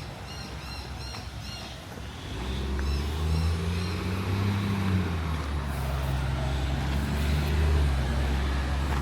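A bird calling in a quick run of short high notes, then about two seconds in the low drone of a motor vehicle's engine rises close by and keeps running, its pitch lifting and falling once before it settles.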